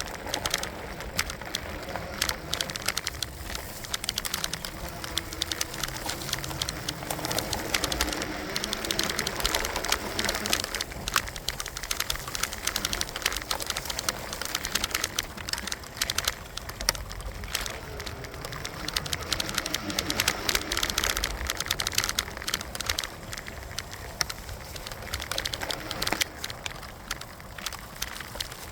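Electric bike being ridden, with a dense, steady rattle and clicking and a low rumble underneath.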